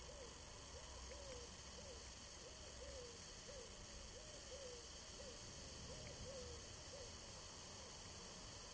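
A bird in the background giving a faint series of short, low hooting notes, about two a second, which stop near the end.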